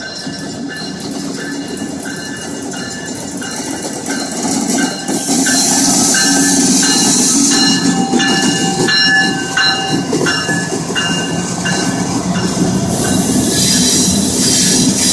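CSX diesel locomotive running light, with no cars, passing close by: engine rumble and wheels on the rails, getting louder about five seconds in. A string of short high-pitched tones repeats about twice a second over it.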